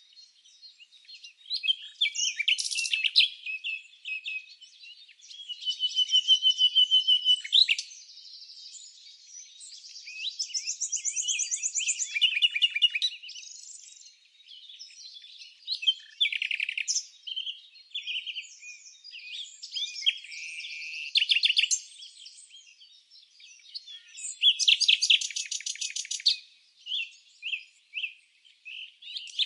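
Songbirds chirping and singing: a string of varied high phrases and rapid trills, with short pauses between them.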